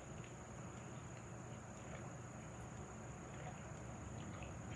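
Faint room tone: a steady low hum with a thin, high-pitched electrical whine and no distinct event.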